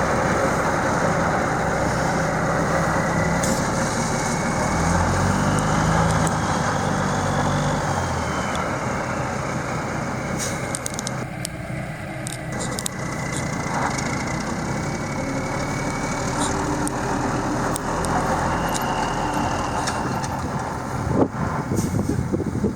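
International 9000-series heavy truck's diesel engine running steadily, a little louder and deeper for a few seconds about five seconds in. A few sharp clicks near the end.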